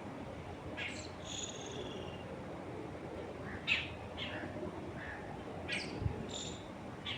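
Songbirds chirping: short, sharp calls every second or so, some with a brief held whistled note, over a steady rustle of wind in the trees.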